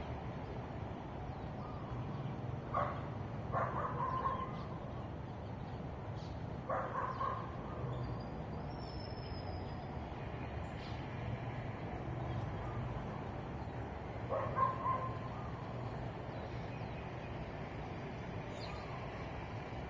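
Steady low hum of distant traffic, with a few short, sharp animal calls standing out above it: a pair about three seconds in, another near seven seconds and one more around fifteen seconds.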